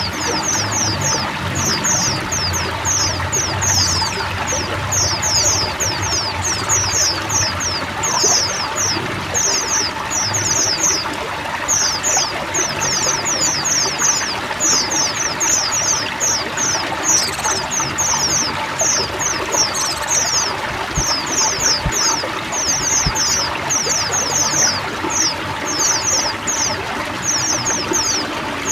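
Running water trickling and pouring steadily under a dense flock chorus of white-eyes (pleci), many birds chirping quick, high, falling notes without a break.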